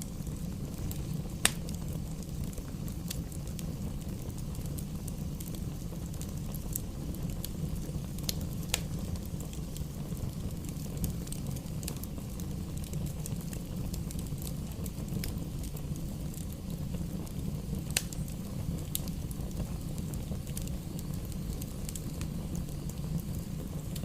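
Bonfire crackling, with irregular sharp pops from the burning wood over a steady low rumble; the loudest pops come about a second and a half in and again late on.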